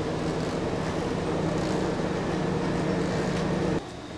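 Vehicle engine running steadily, a constant low hum with an even pitch, which cuts off abruptly near the end.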